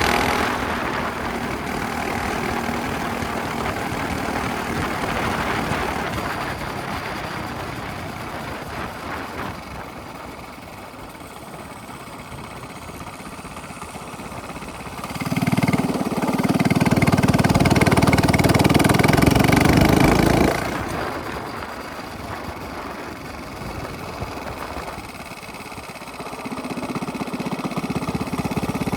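Minibike engine with a straight-pipe exhaust running as it is ridden: the sound fades over the first half, comes in loud for about five seconds in the middle, drops back, and builds again near the end.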